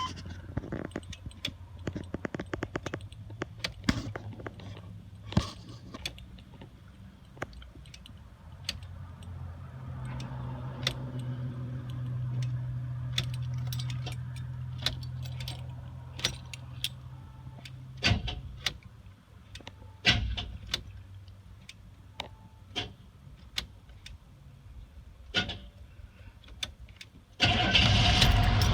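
Starting attempt on a 1984 Chevrolet K5 Blazer's 6.2-litre diesel V8, which has a no-start problem. Keys jangle and click over a steady low hum, which grows louder for several seconds and then cuts off suddenly. Near the end a much louder engine sound comes in abruptly.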